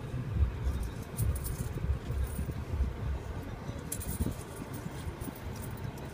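Coins jingling faintly in a hand, a few light metallic clinks over a low, uneven rumble.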